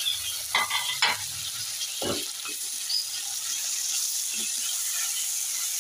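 Onions, tomatoes and ginger-garlic paste sizzling in hot oil in a karahi, with a stirring spoon knocking and scraping against the pan a few times in the first two seconds.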